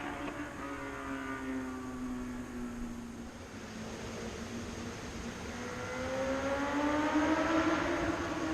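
Honda CBR1000RR Fireblade's inline-four engine heard through a Delkevic aftermarket exhaust. Its note slowly falls and quietens over the first few seconds, then rises and grows louder again from about halfway, easing slightly at the very end.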